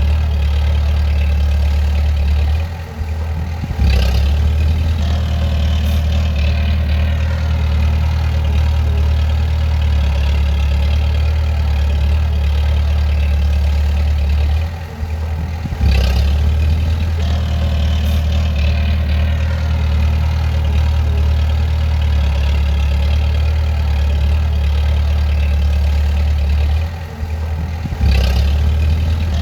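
Bulldozer's diesel engine running with a steady low drone. About every twelve seconds it briefly drops off, and each drop is followed by a sharp clank as it comes back in.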